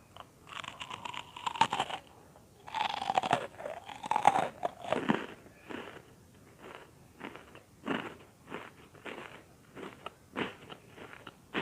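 Close-miked bites and chewing of crunchy butter-toasted bread cubes (bread popcorn). Two long crunching bites in the first five seconds, then steady chewing with a crunch about every half second.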